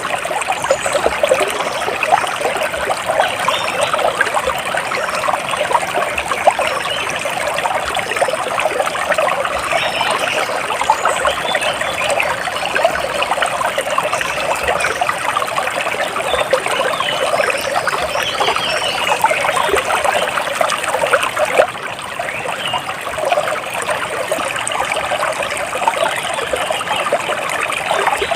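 Water trickling and splashing steadily over stones, like a small stream, with faint high bird chirps here and there.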